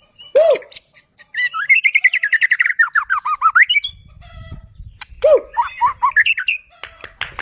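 White-rumped shama singing vigorously: a varied song of fast runs of whistled notes that slide down in pitch, mixed with sharp clicking notes and, twice, a low swooping whistle.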